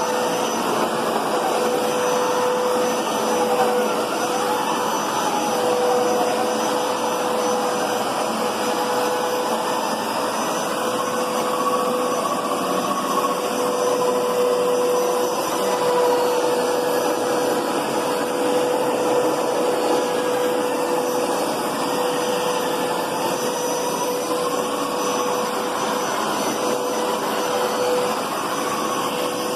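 Hoover Power Scrub Deluxe carpet cleaner running steadily, its motor giving a constant whine with a fainter tone that slowly drifts up and down.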